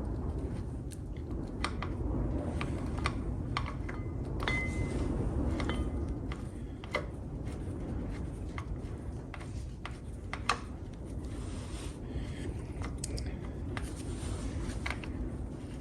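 Scattered light metallic clicks and taps of bolts and hand tools being handled while refitting a motorcycle front brake caliper, with a brief metallic ring about four and a half seconds in, over a steady low rumble.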